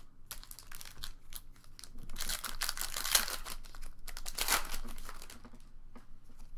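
Foil booster pack wrapper crinkling as it is handled and torn open, with two louder bursts of crackling about two and four and a half seconds in.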